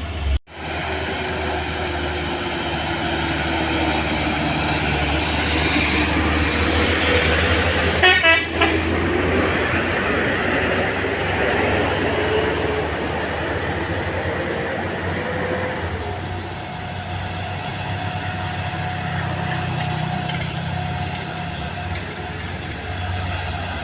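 Heavy diesel trucks' engines running steadily as they climb a hill, with a brief cut-out in the sound about half a second in.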